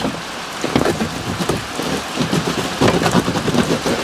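Carpet and sound-deadening insulation being pulled up and torn out of a Jeep Cherokee's floor: an irregular crackling, rustling and scraping with many small snaps.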